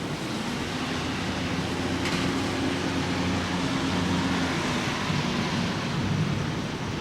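Steady rain falling, with a motor vehicle's engine hum swelling and then fading over about six seconds as it passes.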